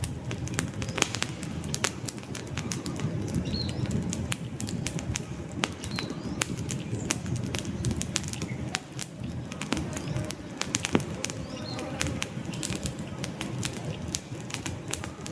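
Wood fire burning in a fireplace: irregular sharp crackles and pops from the logs over a steady low rumble of flames, with a few faint short high squeaks.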